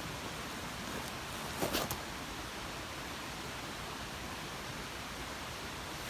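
Steady rushing of a mountain stream in the headwaters, running high after typhoon flooding. A short crackle of rustling comes a little under two seconds in.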